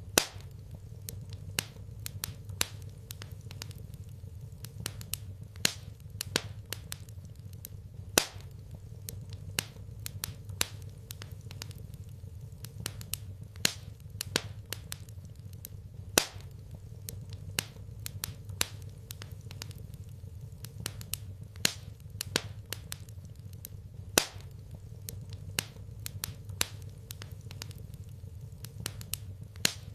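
Wood fire crackling in a fireplace: irregular sharp pops and snaps, a few of them much louder, over a steady low hum.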